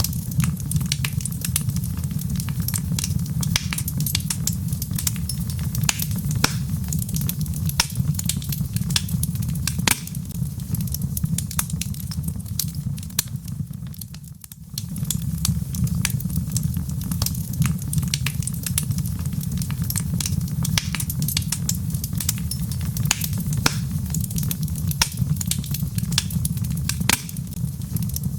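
Wood logs burning in a fireplace, crackling with many sharp pops over a steady low roar. The sound briefly drops away about halfway through, then resumes.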